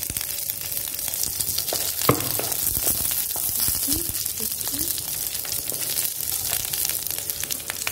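Fresh green cashews and curry leaves sizzling in hot oil in a nonstick kadai, with a wooden spatula scraping and tapping as they are stirred.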